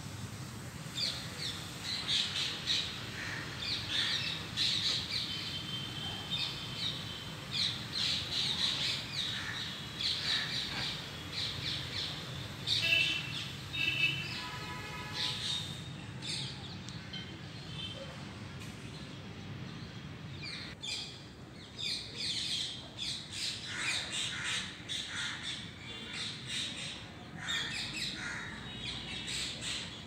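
Birds chirping and calling in many quick, short, high notes, with one longer call about halfway through.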